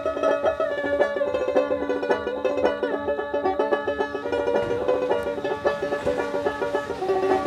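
Dotara, a skin-bellied Bengali folk lute, played in fast runs of plucked notes with a few slides in pitch.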